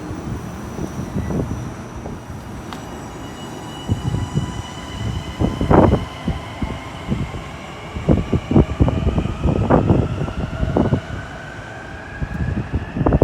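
Long Island Rail Road train moving along the track: irregular wheel knocks and clatter over the rails, with a whine that rises slowly and steadily in pitch from a few seconds in.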